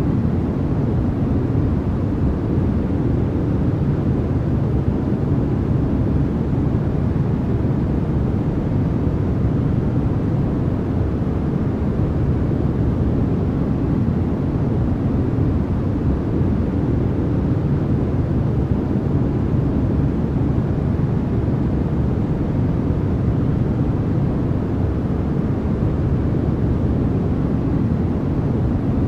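Steady, unbroken noise played as a sleep and focus aid, sold as white noise. Its weight sits in the low end, so it sounds like a deep, even rumble rather than a bright hiss, with no change in level.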